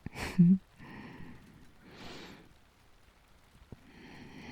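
A woman's soft sigh with a brief hummed "mm" near the start, followed by quieter breaths close to the microphone.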